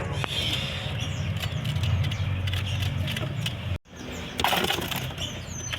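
Steady low rumble of passing street traffic with faint chirps of caged songbirds; the sound drops out abruptly a little past halfway, followed by a short rustling burst.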